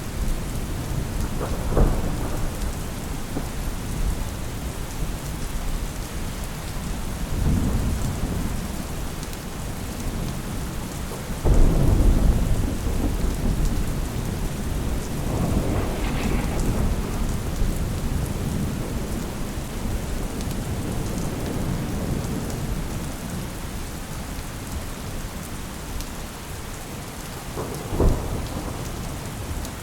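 Steady rain with thunder rolling in low, drawn-out rumbles. A loud clap starts suddenly about a third of the way through and rumbles away, and a shorter crack comes near the end.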